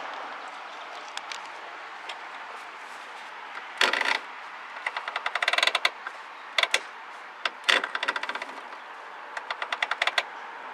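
Rapid runs of light metallic clicking and rattling from small metal parts being handled, with one louder clatter about four seconds in.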